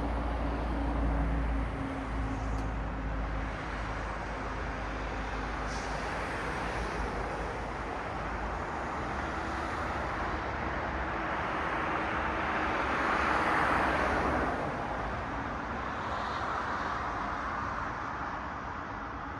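City street traffic: the steady rush of cars passing, with a low engine hum in the first few seconds and the tyre noise of one car swelling and fading about two-thirds of the way through.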